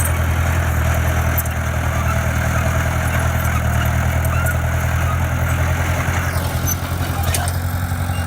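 A heavy-equipment diesel engine running steadily at low speed, with an even low engine note.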